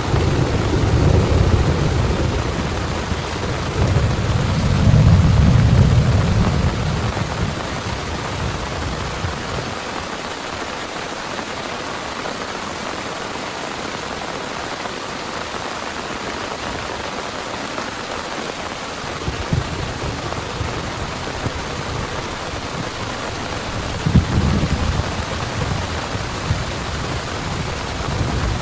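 Heavy rain falling steadily, with thunder rumbling twice: a long deep roll in the first few seconds, then another building near the end.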